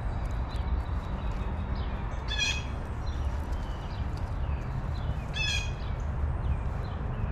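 A bird gives two short, harsh calls about three seconds apart, with faint chirps from other small birds in between, over a steady low rumble.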